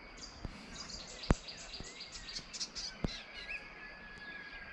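Birds chirping and calling, with one thin held whistle in the second half. Two sharp clicks cut through, about a second in and about three seconds in.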